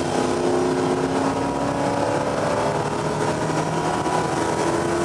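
A motor vehicle engine held at steady revs, its pitch drifting slowly.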